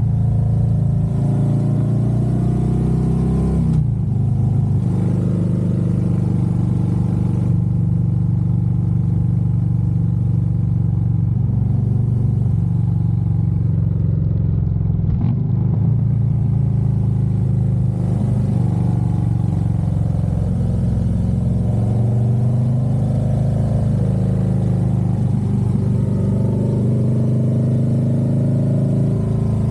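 Harley-Davidson Road Glide's V-twin engine running on the road. Its note dips briefly about four seconds in and climbs again about two-thirds of the way through.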